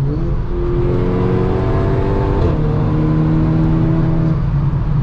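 Car engine accelerating hard, its pitch climbing steadily and dropping back about two and a half seconds in and again near the end as it shifts up through the gears, over road and tyre noise at speed.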